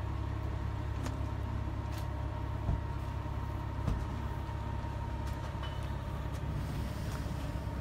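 A steady low rumble, with a few light, sharp clicks and scrapes of a spatula on a gas griddle as food is tossed on.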